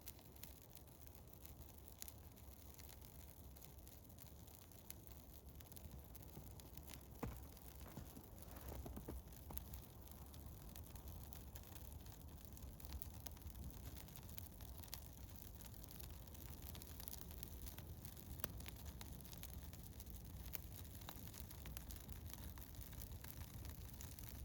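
Small wood fire of birch bark and eastern hemlock crackling faintly, with scattered irregular pops and a couple of sharper snaps, over a low steady rumble.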